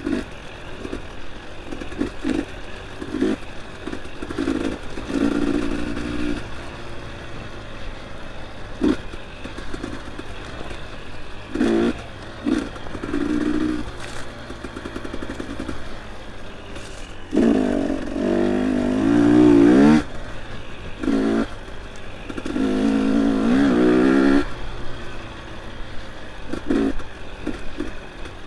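Dirt bike engine on and off the throttle in short bursts, revving up hard twice in the second half, with short knocks and rattles from the bike over rough ground.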